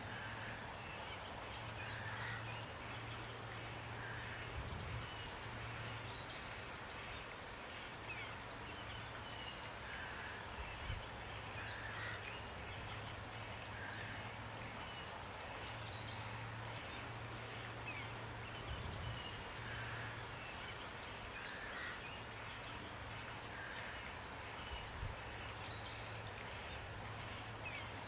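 Steady rain with birds singing over it: many quick high chirps and short down-slurred notes, and a softer call repeated about every two seconds. A low hum comes and goes underneath.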